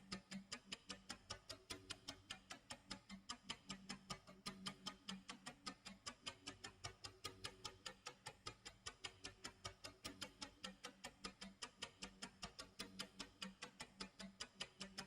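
Clock tick-tock sound effect: a faint, fast, even ticking that does not change.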